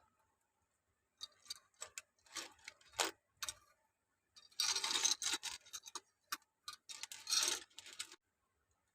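Small plastic Lego pieces clicking and rattling as they are handled: scattered sharp clicks, then two denser bouts of rattling clatter.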